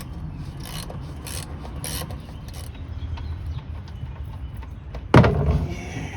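Ratchet wrench with a 15 mm socket working the oil drain plug under the car: a run of short rasping clicks, then one loud metallic clank about five seconds in.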